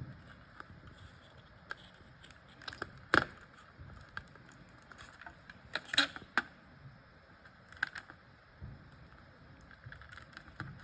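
Scattered small clicks and light knocks from handling the box and packaging of a die-cast model airliner, with the sharpest clicks about three seconds in and about six seconds in.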